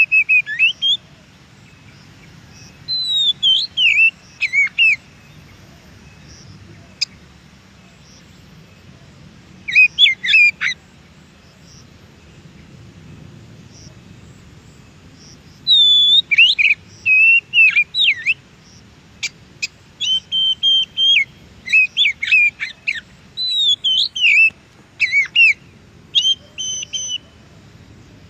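Oriental magpie-robin singing: loud, varied whistled phrases with quick up-and-down glides, in short bursts separated by pauses. The song comes sparsely at first and runs nearly continuously through the second half.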